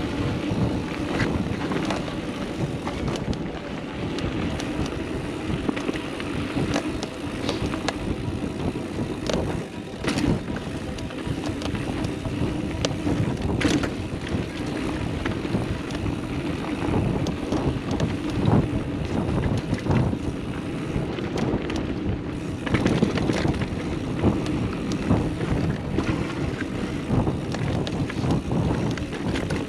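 29er mountain bike descending rough dirt singletrack: tyres rolling over dirt and rocks, with frequent clicks and knocks from the bike rattling, and wind on the microphone.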